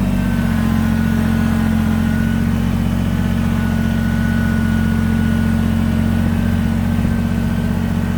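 Kubota BX23S compact tractor's three-cylinder diesel running at a steady speed, with a faint high whine over the engine note for most of the time.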